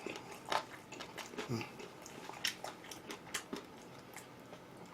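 Close-miked eating sounds: a person chewing and biting food, with faint irregular clicks and crunches a few times a second.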